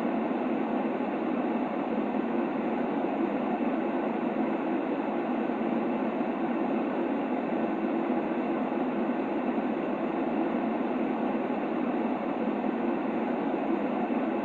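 Steady white noise for a baby's sleep: an even, unchanging rushing hiss, muffled, with most of its weight low and little treble.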